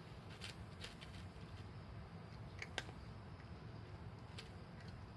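A cat eating, with a few faint, irregular crunching clicks from chewing dry food over a low steady background rumble.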